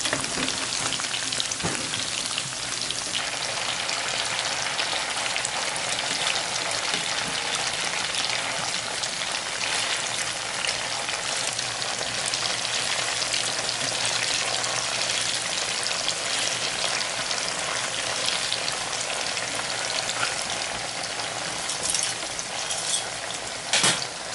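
Tofu triangles shallow-frying in hot oil in a pan, a steady crackling sizzle. Metal tongs scrape lightly as the pieces are turned, and there is a sharp knock near the end.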